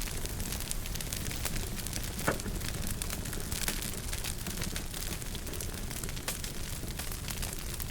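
Wood fire crackling in a fireplace: a steady stream of small snaps and pops over a low rumble, with one louder pop about two seconds in.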